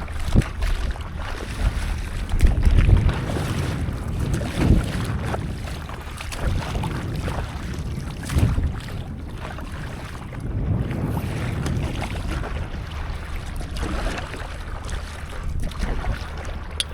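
Wind rumbling on the microphone over sea water sloshing and splashing around a stand-up paddleboard, with irregular louder surges.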